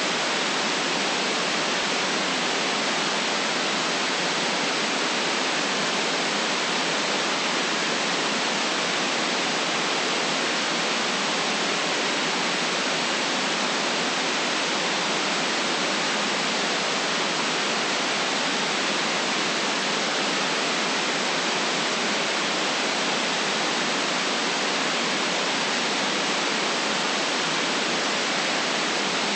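Steady white noise: an even hiss that never changes, with no deep bass.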